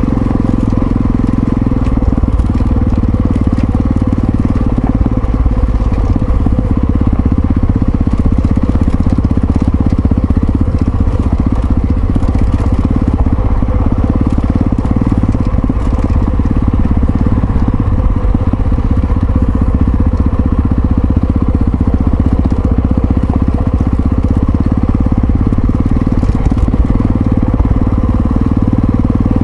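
Yamaha XT660Z Ténéré's single-cylinder engine running steadily under way, with no marked revving or stops.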